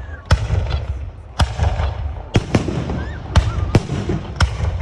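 Fireworks going off: about eight sharp bangs at irregular intervals, over a steady low rumble.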